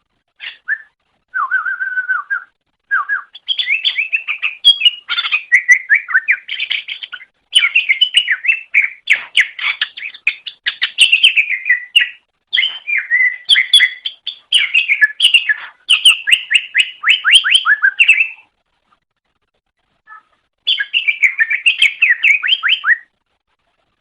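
Cucak ijo (green leafbird) singing a loud, rapid chattering song of quick up-and-down notes in long runs, with a pause of about two seconds before a last short run near the end.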